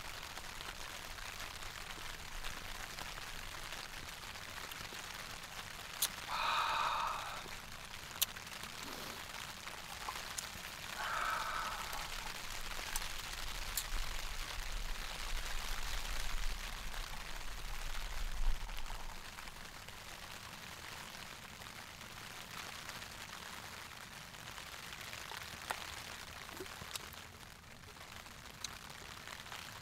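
Light rain pattering steadily on the tent fabric, with scattered drop ticks. A man gives a contented sigh after a swig of beer about six seconds in, and a shorter one about eleven seconds in.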